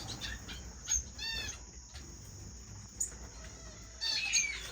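Small cage finches chirping: a few short calls, one clear arched call about a second in and a cluster of calls near the end, with a couple of faint taps.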